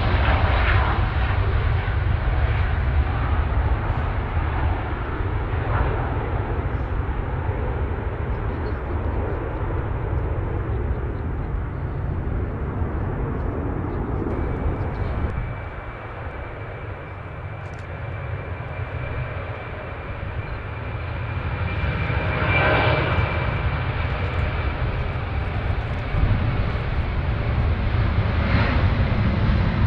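Jet airliner engines running, a dense rumble with heavy low end that eases about halfway through and swells again. A thin high whine sounds over it through the middle.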